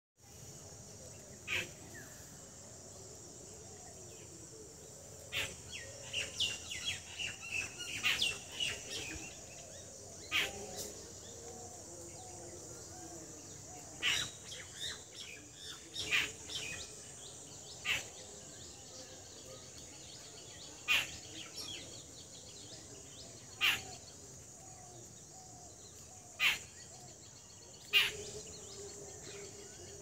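Birds chirping: short, sharp calls every two or three seconds, with a busier run of twittering about five to nine seconds in, over a steady high hiss.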